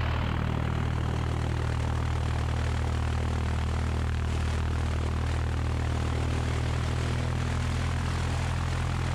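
1969 Cessna 172's four-cylinder Lycoming engine and propeller running steadily at low power, a constant low drone with no change in pitch or level.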